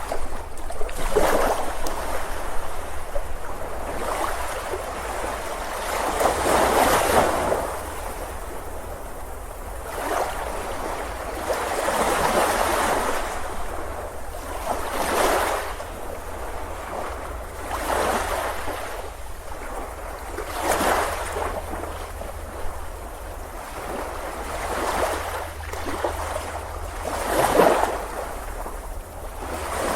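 Ocean surf breaking on a beach in repeated surges, about ten in all, each swelling and washing away every two to four seconds, over a steady low rumble.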